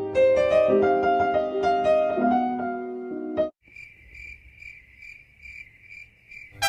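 A short keyboard phrase of held piano-like notes, cut off about three and a half seconds in. A cricket then chirps in even pulses, about three a second.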